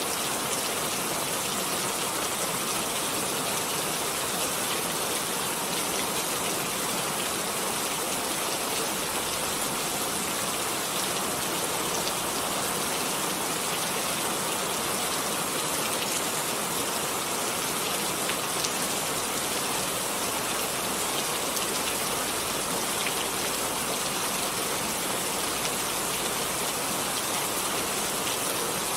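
Steady rain falling on a surface, a constant hiss with faint scattered drop ticks.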